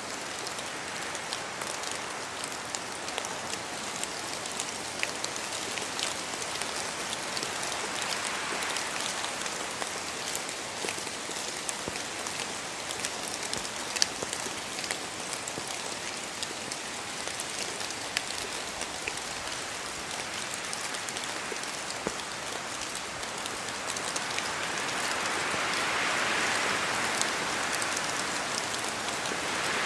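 Steady rain falling on forest trees, with many individual drops pattering down from the leaves, and a gust of wind swelling the sound near the end.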